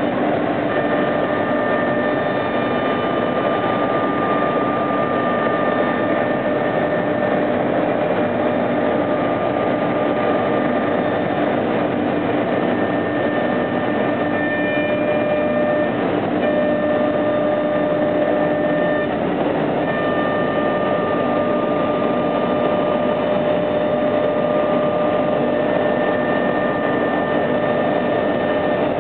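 CNC machine running steadily, its spindle giving a constant whine over an even cutting noise, with the whine briefly dropping out a few times.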